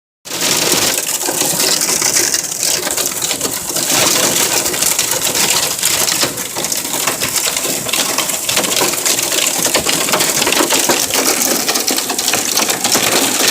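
Hail pelting a car's roof and windshield, heard from inside the car: a dense, unbroken clatter of hard ice hits that starts abruptly.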